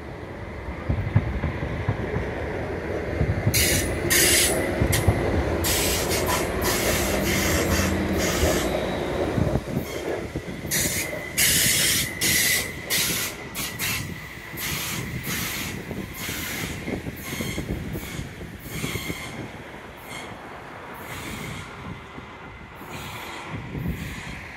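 Stadler FLIRT diesel-electric train passing close by: a low engine rumble, with a run of sharp clacks from its wheels on the track and a thin steady squeal, fading as it moves away near the end.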